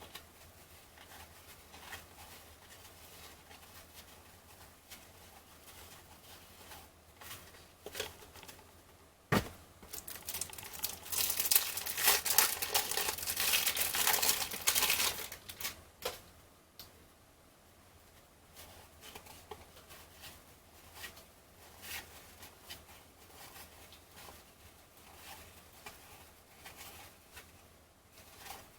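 A cellophane-wrapped (cello) pack of baseball cards being torn open and its wrapper crinkled, loudly for about five seconds near the middle after a sharp click. Before and after, faint clicks and rustles of cards being handled.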